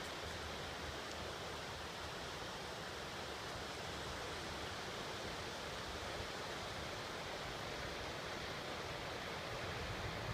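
Steady rushing of the Ishikari River's rapids, an even wash of flowing water that holds at one level throughout.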